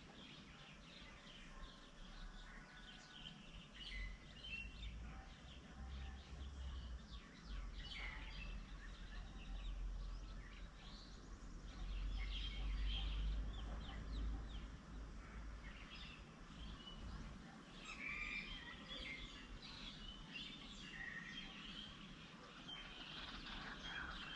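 Several birds chirping and calling in quick, overlapping short notes, over a faint low rumble.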